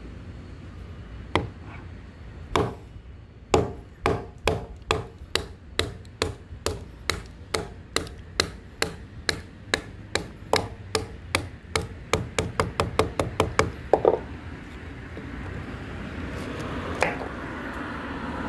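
A Cold Steel knife being batoned into a piece of tough wood: a wooden baton strikes the knife's spine again and again, about two sharp wooden knocks a second, quickening near the end and stopping about fourteen seconds in.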